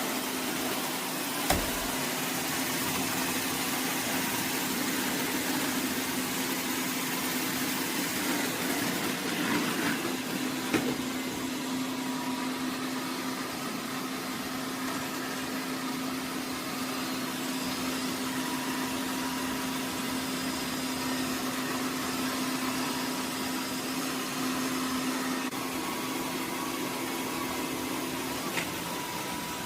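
eufy E25 robot vacuum-mop running: a steady motor hum over a constant hiss of suction. Two short knocks come through, about a second and a half in and again about eleven seconds in.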